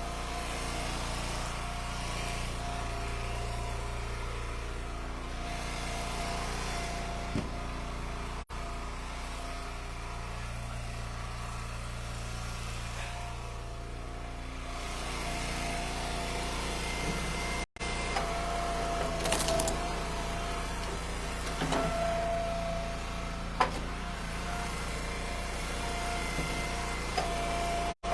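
Eastonmade Ultra hydraulic wood splitter's engine running steadily, with a few sharp knocks and cracks as ash rounds are split and pieces are handled.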